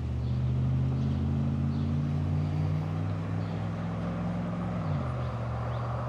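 An engine running with a steady low hum; its pitch drops a step about five seconds in.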